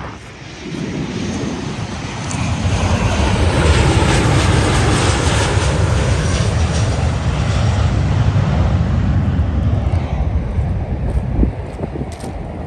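Jet airliner passing low overhead on its landing approach: the engine roar builds over the first couple of seconds, stays loud, then fades near the end.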